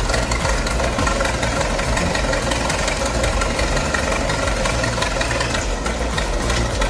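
Large diesel engine of a piece of heavy earthmoving equipment running steadily, with a dense, rapid clatter.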